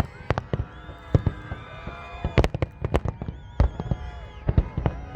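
Fireworks display: a rapid, irregular string of sharp bangs, several a second, with whistling tones gliding and warbling between the bursts.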